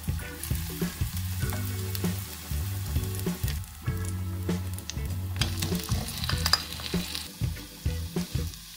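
Sliced spring onion sizzling in olive oil in an enamelled cast-iron pot. Potato slices are tipped in around the middle, with small knocks and a brighter burst of sizzling as they land in the hot oil.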